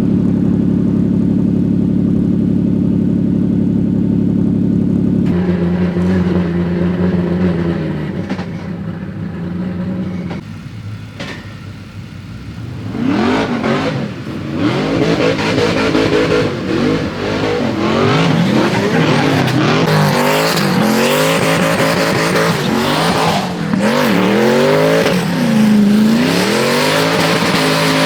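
Drift car engines at a drift event: a steady engine drone for about five seconds, then engines revving up and down hard and repeatedly from about halfway through, over tyre squeal and skidding.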